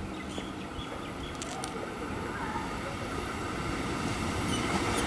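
Electric suburban train approaching along the track, its rumble growing steadily louder.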